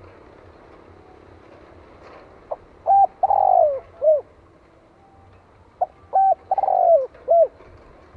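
Spotted dove cooing twice, about three seconds apart. Each phrase is a few short clipped notes around one longer coo that falls in pitch. This is the dove's crowing call, as used to provoke and lure wild males.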